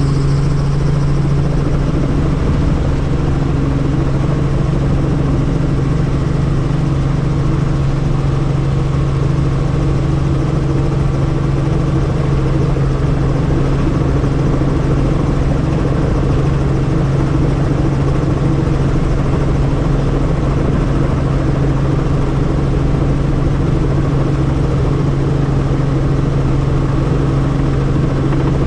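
Helicopter in flight, heard from on board: a loud, steady drone of rotor and engine that holds one low hum throughout.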